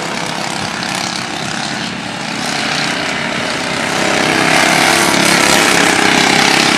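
A pack of racing lawn tractors with 16–20 hp engines running around the track, several engines at once, growing louder about four seconds in.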